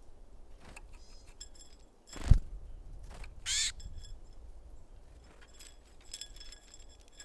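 Small birds at a feeder: a sudden loud thump about two seconds in, then a short, high, nasal-sounding call a second later. Faint high ticks and tinkles come in clusters before and after.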